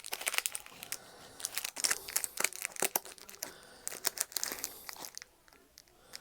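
Foil trading-card booster packs crinkling and crackling as they are shuffled and sorted through by hand, a busy run of rustles that thins out near the end.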